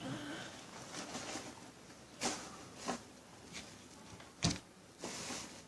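A few light knocks and clicks of objects being handled and set down on a surface, the loudest about two-thirds of the way in, with a short soft rustle near the end.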